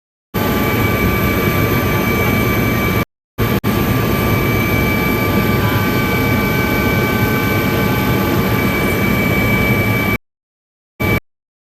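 Helicopter turbine and rotor noise, loud and steady with a high whine. It cuts out abruptly to dead silence a few times: briefly about three seconds in, then again near the end, with one short burst after that.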